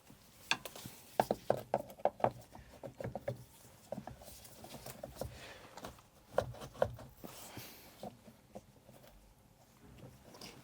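Short sharp clicks and knocks from hands and tools working at the top of a Kubota mini digger's hydraulic oil tank to open it. They come in a dense run over the first few seconds and another cluster about two thirds of the way through.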